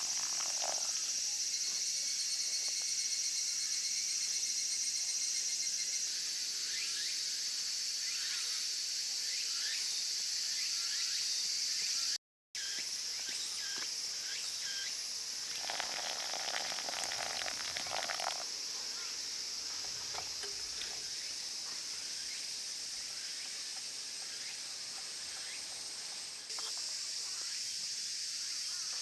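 Chorus of insects trilling steadily in a high continuous band. It cuts out completely for a moment a little before halfway, then carries on.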